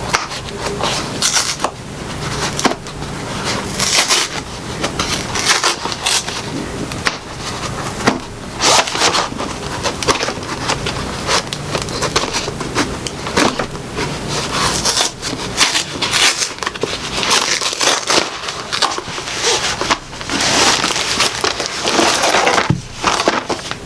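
A store-bought apple pie's packaging being handled and opened, crackling and crinkling in many irregular bursts.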